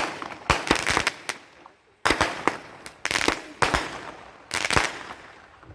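Fireworks going off in a rapid series of sharp bangs, roughly one or two a second, each with a short fading tail.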